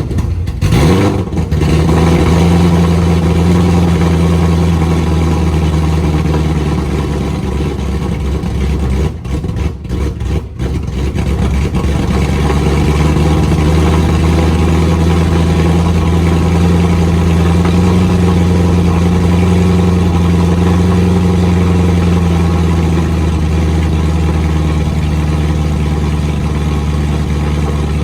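Ford Mustang GT's 5.0 Coyote V8 on open headers, with no mufflers, firing up on a cold start. It flares briefly about a second in, then settles into a loud, steady cold idle with a brief unsteady patch about ten seconds in.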